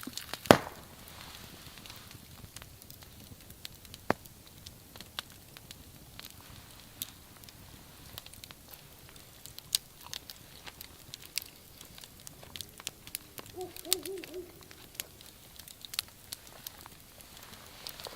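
Wood fire crackling, with scattered sharp pops, the loudest about half a second in. Near the end there is a brief wavering call.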